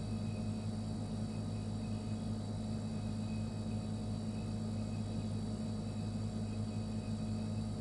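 Refrigerator running with a steady low hum, with faint high steady tones above it.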